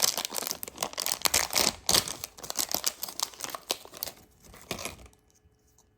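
A small collectible figure's blister pack being torn open and its wrapper crinkled and crumpled, in quick crackly rustles that thin out and stop about five seconds in.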